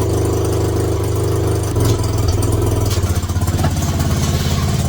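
125cc mini bike engine running steadily just after being started, at an even idle.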